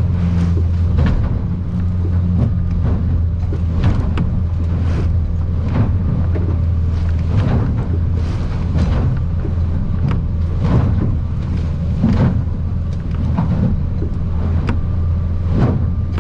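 Outboard motor running steadily under load, heard from inside the cabin of an aluminium boat, with frequent irregular knocks and splashes as the hull pounds through rough, closely spaced swells and water strikes the boat.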